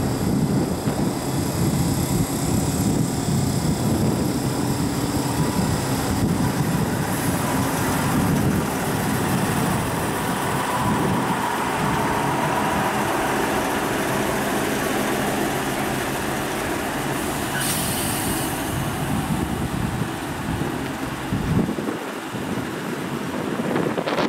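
DB class 628 diesel railcar and passenger coaches rolling slowly past, the railcar's diesel engine running steadily under a low rumble of wheels on rail. A short burst of air hiss comes about two-thirds of the way through.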